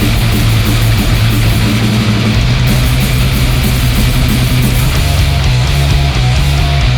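Loud heavy metal song by a full band, with electric guitars, bass and drums. About five seconds in, the bass line breaks into a choppier, stop-start pattern.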